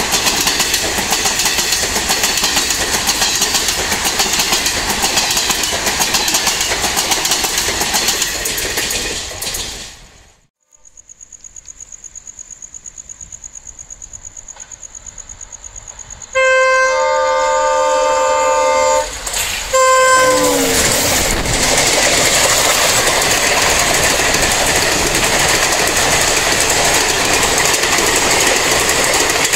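Train wheels running on the track with a loud, steady rumble, cut off at about ten seconds to a quiet stretch with a faint steady high whine. Then a WDP4D diesel locomotive sounds its multi-tone horn, a long blast and a short second one that falls in pitch as it ends, and the train passes with loud wheel-on-rail rumble.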